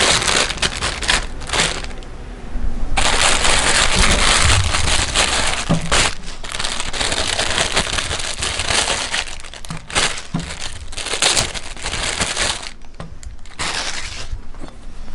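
Meat grinder crushing toy figures: a dense run of crunching and cracking that eases off briefly twice.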